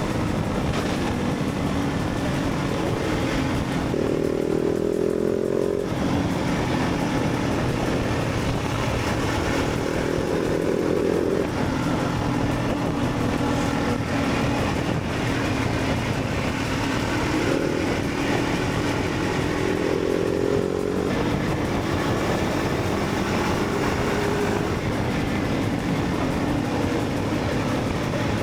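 Motorcycle engine accelerating hard, its pitch climbing and then dropping sharply at each gear change, three times, over a steady rush of wind noise.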